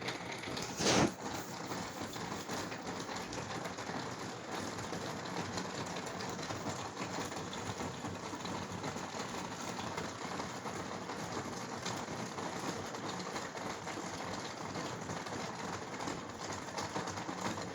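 Steady rain falling in a thunderstorm, with one brief loud burst about a second in.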